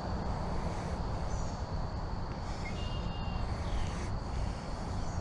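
Steady low rumble of outdoor background noise, with a few faint short high chirps about a third and halfway in.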